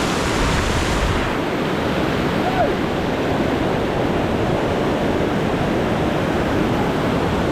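A waterfall's rushing water: a steady, loud wash of noise. About a second in, the upper hiss drops away and it sounds duller.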